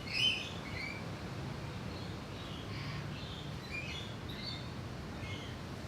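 Faint bird chirps, short and scattered, over low background noise.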